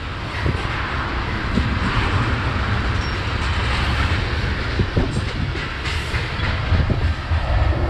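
Freight train cars rolling past on the rails, with a steady low rumble and scattered knocks from the wheels.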